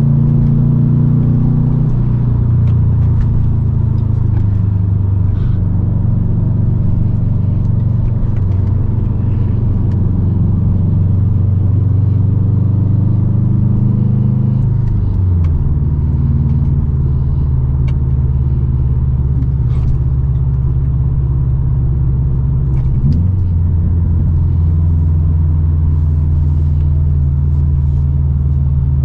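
2008 Subaru STI's turbocharged 2.5-litre flat-four running through a full Invidia exhaust (catted downpipe and N1 cat-back) while driving, a steady low exhaust rumble. The engine note steps down in pitch about halfway through and wavers briefly again about three-quarters of the way through as engine speed changes.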